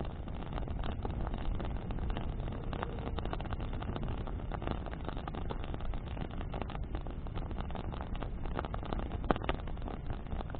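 Bonfire burning in the wind: a steady low rush of flame and wind with many small crackles and pops of burning wood, one sharper pop near the end.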